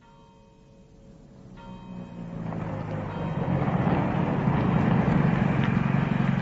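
Car engine running, fading up from near silence over the first few seconds to a steady, loud level.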